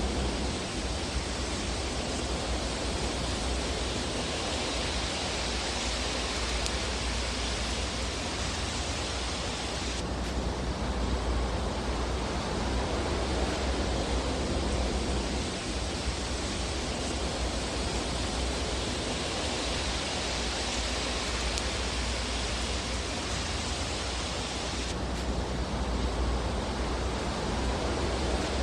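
Fireplace fire ambience: a steady rushing hiss over a low rumble, slowly swelling and easing, with no distinct crackles.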